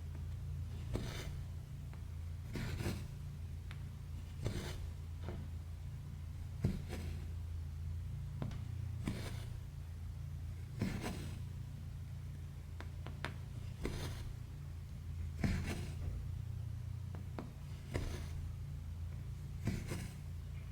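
Cross-stitch thread pulled through stamped fabric by hand, a short soft rasp about every two seconds, over a steady low hum.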